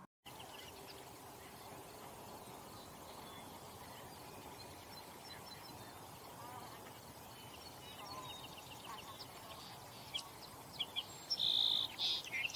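Birds chirping and calling over a steady outdoor background hiss, with the calls growing louder near the end: a quick run of sharp chirps and a short held whistled note.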